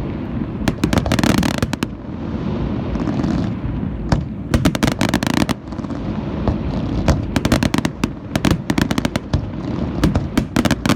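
Aerial fireworks display: clusters of sharp crackling firework bursts every second or two over a steady low rumble of booms.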